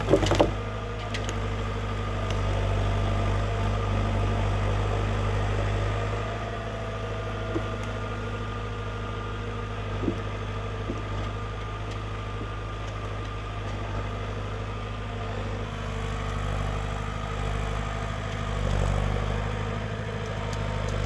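Komatsu 840TX forwarder's diesel engine running steadily, with a few faint knocks around the middle and the engine swelling briefly near the end.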